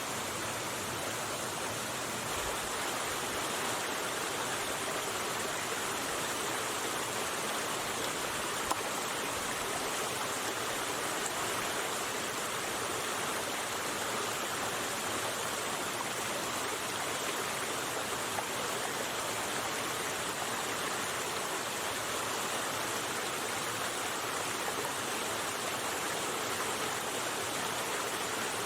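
River water rushing steadily, with one small click about nine seconds in.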